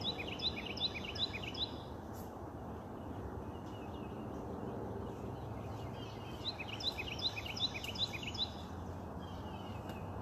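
A songbird sings two phrases, each a quick run of six or seven repeated chirps at about three to four a second: one at the start and one about six seconds later. Under them is a steady outdoor background hiss.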